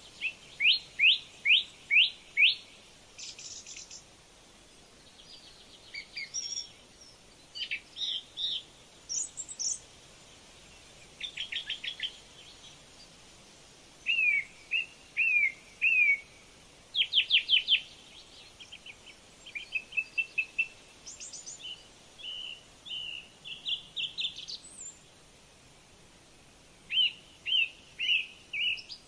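Bird calling in runs of three to five quick, sharp rising notes, repeated every few seconds, with softer chattering notes between the runs.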